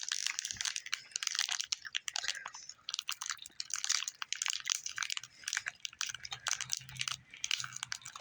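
Close-miked eating: gummy fruit snacks being chewed, with wet mouth clicks and irregular crinkling of the plastic snack packet.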